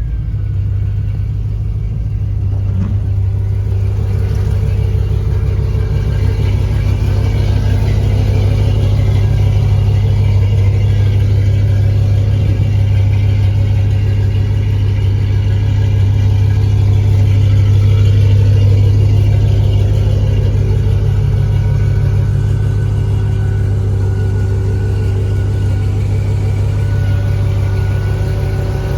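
Chevy truck's engine idling steadily just after a cold start, with a deep, even hum that swells slightly about two-thirds of the way through.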